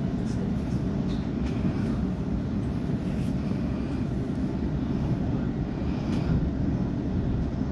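Steady low rumble of a train running, holding even throughout without any rise, fall or distinct event.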